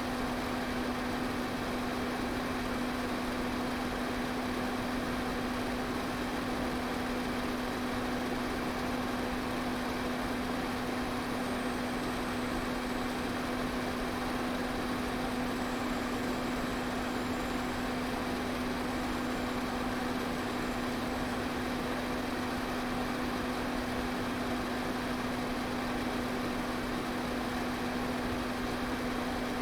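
Electric fan running steadily: an even rush of air with a constant motor hum.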